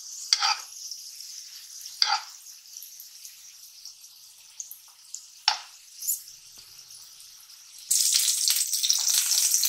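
Patties shallow-frying in hot oil in a non-stick pan: a steady high sizzle, with a few short scrapes of a metal spoon against the pan. About eight seconds in the sizzle becomes much louder.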